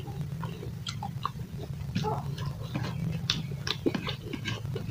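Close-up eating sounds of a person chewing rice and pork, with quick wet lip-smacks and mouth clicks, several to a second, over a steady low hum.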